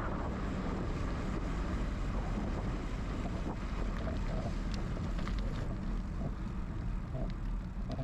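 Wind rushing over the action camera's microphone as a bicycle rolls along, with a steady low rumble. A few light clicks come midway, and short repeated calls start near the end.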